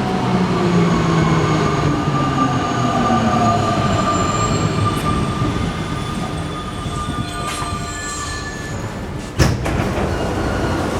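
Alstom NS-93 metro train running and slowing, its motor whine falling slowly in pitch, with a single sharp knock about nine seconds in.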